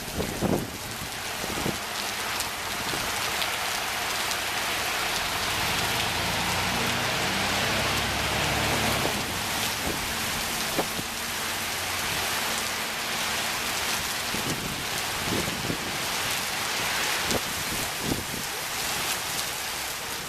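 Heavy rain pouring down steadily, with scattered sharp drops striking close by and a low rumble through the middle.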